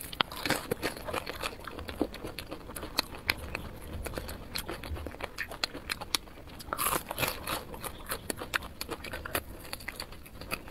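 Mouth sounds of a person biting and chewing chilli-coated grilled skewer meat: a steady run of small wet clicks and crackles, busier around seven seconds in.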